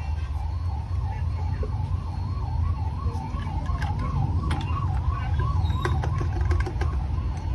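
Emergency vehicle siren, a warbling tone that rises and falls about two to three times a second, over a steady low rumble, with a few faint clicks in the second half.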